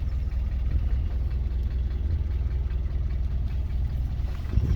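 Mitsubishi Pajero iO's 2.0-litre GDI petrol four-cylinder engine running with a steady low drone.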